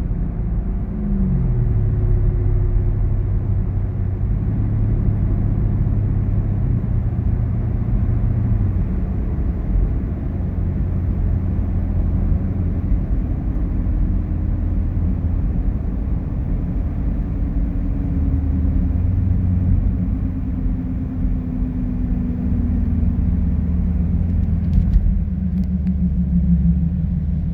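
Camaro ZL1's supercharged V8 heard through an aFe cat-back exhaust: a steady low rumble whose pitch drops about a second in and then drifts slowly up and down.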